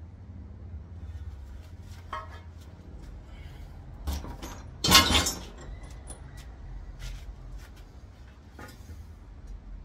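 Metal transmission parts clinking and knocking as they are handled, a few separate knocks with the loudest about five seconds in.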